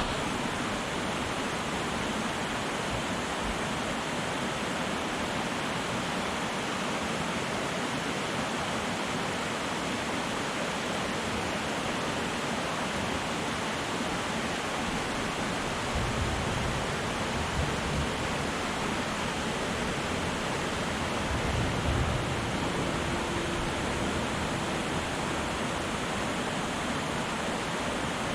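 Waterfall rushing steadily: an even, unbroken wash of falling water, with a few brief low rumbles partway through.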